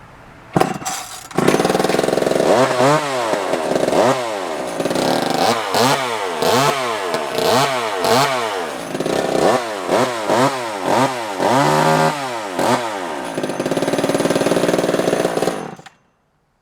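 Vintage JOBU SL2 two-stroke chainsaw engine, started with a pull about half a second in and catching about a second later. It is then revved over and over, the pitch rising and falling in quick blips, settles briefly into a steady run, and is cut off suddenly near the end. It is running in good condition.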